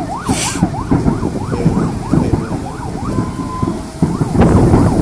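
An emergency-vehicle siren in fast yelp mode, its pitch sweeping up and down about three times a second, under heavy wind rumble on the microphone. About four seconds in, a loud rush of noise rises and covers it.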